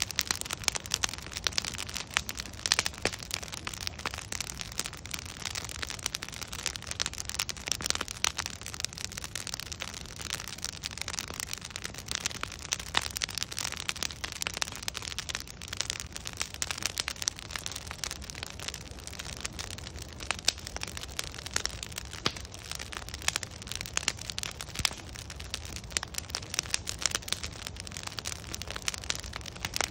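Log bonfire burning, with continuous crackling and many sharp pops of wood over a steady low rush of flame.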